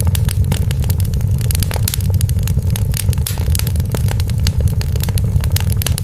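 Wood fire burning in a fireplace: dense, irregular crackling over a steady low rumble of the flames.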